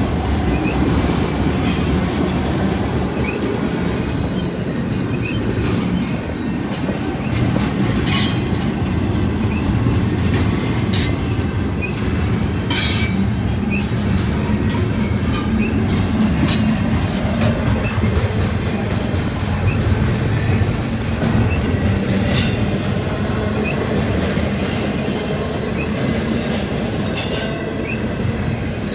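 Freight train cars rolling past close by: a steady rumble of steel wheels on rail from double-stacked intermodal well cars, with a sharp, high-pitched metallic squeal from the wheels every few seconds.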